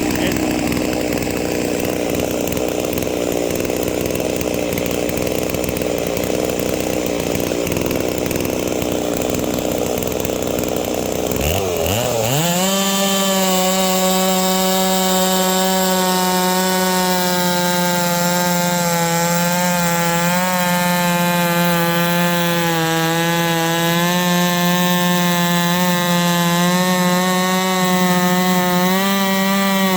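Holzfforma G660 98.5cc big-bore two-stroke chainsaw running on a chainsaw mill, ripping a log lengthwise into boards. For the first twelve seconds it runs rough and unsteady, then it revs up sharply and holds a steady high pitch at full throttle, wavering slightly as it cuts.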